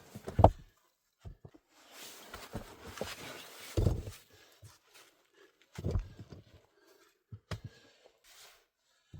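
Irregular knocks and thumps, the loudest about half a second in, about four seconds in and about six seconds in, with rustling between them.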